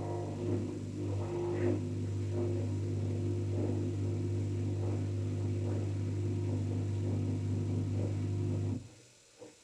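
An LG 5 kg washing machine running with a steady electrical hum, which cuts off abruptly near the end.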